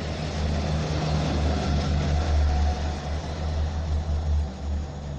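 Talgo passenger train running on the track, a steady low rumble that swells and dips.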